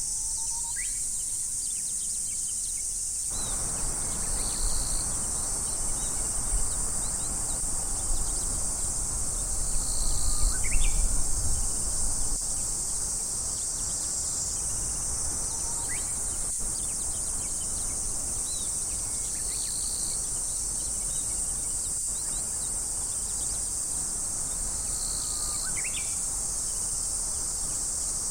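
Steady high-pitched drone of an insect chorus in summer woods, with a bird calling a few short rising notes now and then. A low rumble joins about three seconds in.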